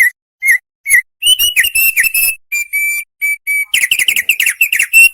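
Opior songbird singing loudly in whistled notes. A few separate notes come about half a second apart, then a quicker run with some briefly held whistles, breaking into a rapid trill near the end.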